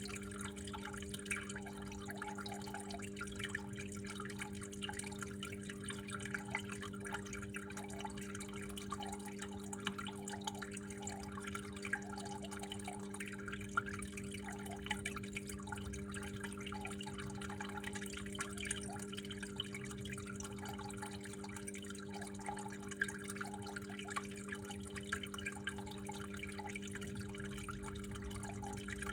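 Water trickling and dripping steadily, with small irregular splashes and the odd sharper drip, over a steady low hum.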